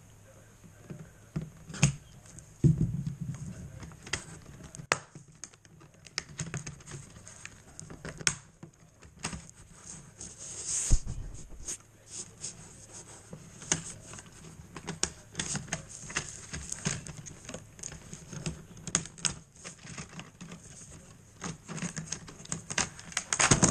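Irregular small clicks, taps and light rattles of HO-scale plastic track sections and small metal rail joiners being handled and fitted together.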